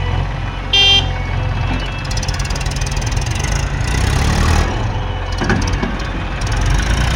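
Diesel engines of a backhoe loader and tractors running steadily with a low drone, with a short, loud vehicle horn toot about a second in.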